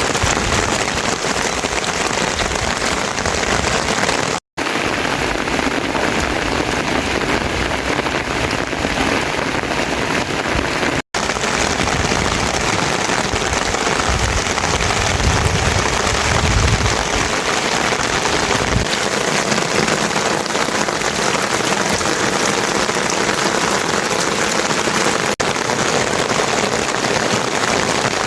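Heavy rain falling steadily, a dense even hiss, broken twice by a momentary gap of silence. A low rumble joins in for a few seconds past the middle.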